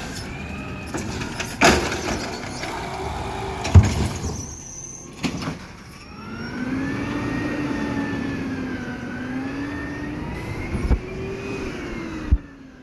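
Garbage truck working: several loud bangs and clanks, then from about halfway a steady mechanical whine that slowly rises and falls in pitch and cuts off suddenly near the end.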